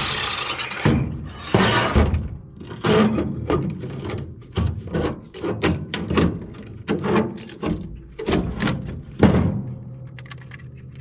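A run of irregular knocks and thunks, roughly one or two a second, from metal scrap parts being struck and handled during the breakdown of air-conditioning units, over a faint low steady hum. A steady machine noise dies away right at the start.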